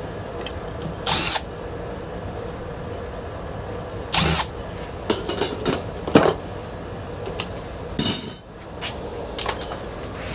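Power drill spinning in three short bursts of about half a second each, with a few lighter clicks and knocks in between.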